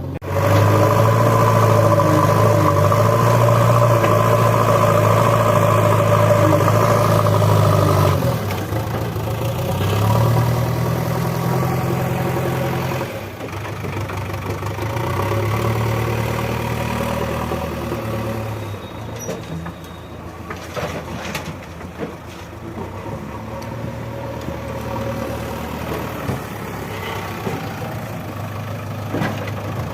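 Heavy diesel engine of earthmoving or farm machinery running hard. It revs high and steady for about the first eight seconds, then its speed rises and falls, and it eases down to a lower, steadier run in the second half.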